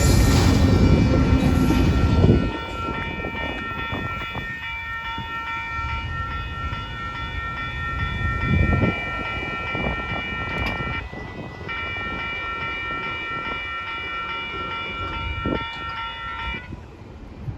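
A passing train's loud rumble dies away about two seconds in. A railroad crossing bell keeps ringing steadily afterwards, breaks off briefly once, and stops shortly before the end.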